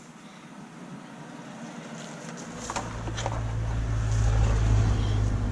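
A motor vehicle's engine drawing near, a steady low drone that grows louder to its peak about four and a half seconds in, with a couple of sharp clicks about three seconds in.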